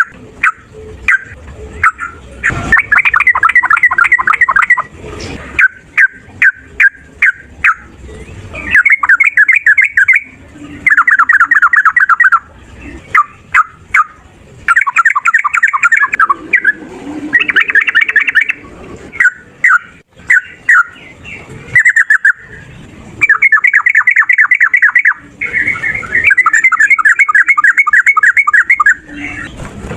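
Yellow-vented bulbul (trucukan) singing loudly in long, rapid rattling runs of notes, each run a second or two long, broken up by short single chirps. It is the agitated 'fighting' song that keepers use to provoke other trucukan into answering.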